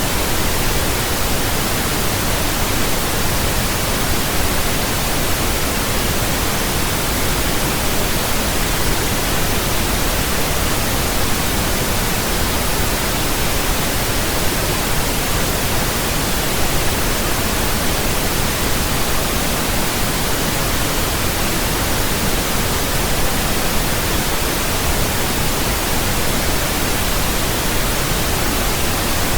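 Steady pink noise: an even, unchanging hiss with more weight in the low end than white noise.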